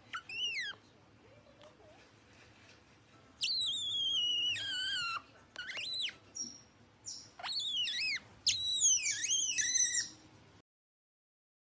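An animal's high-pitched whistling squeals that slide up and down in pitch, coming in several bouts: a short one, a long wavering call, then a quick run of calls. The sound cuts out about ten and a half seconds in.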